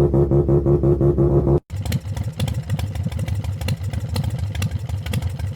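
Electronic music with a steady pulsing beat, cut off abruptly about a second and a half in. A motorcycle engine then runs unevenly with irregular ticking and clatter.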